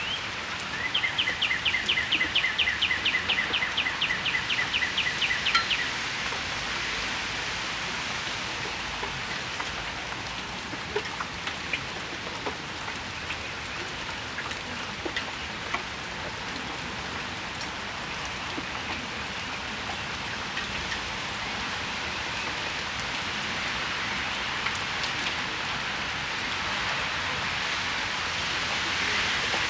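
Steady rain falling on the patio and nearby surfaces, with scattered drips ticking. Near the start a songbird sings a rapid run of repeated short notes, about four a second, for around five seconds.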